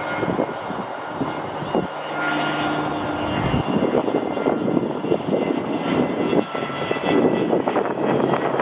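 Airliner's engines running with a steady roar and several high whining tones, while gusts of wind buffet the microphone, more so toward the end.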